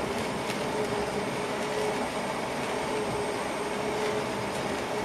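Electric passenger train running on the rails, heard inside the driver's cab: a steady rumble of wheels and track noise with a faint hum that fades in and out.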